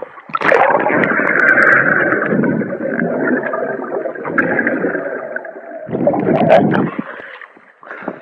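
Muffled water rushing and bubbling as a swimmer dives under the sea surface, in a long loud stretch and then a shorter one.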